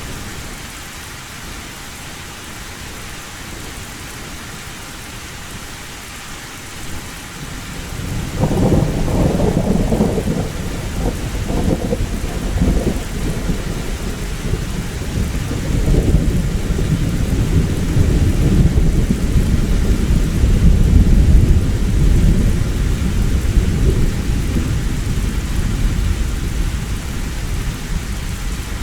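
Steady heavy rain, then about eight seconds in a long, low rumble of thunder rolls in, swells to its loudest well past the middle and slowly dies away.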